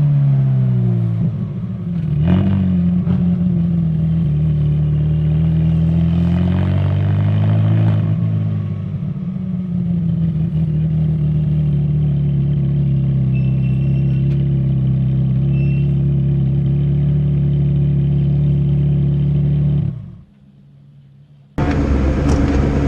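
Ferrari V8 engines on the road: the engine note falls as the car slows, revs rise and fall again, then settle into a steady cruise. Near the end the sound cuts off for about a second and a half, then a louder, rougher engine-and-road noise takes over.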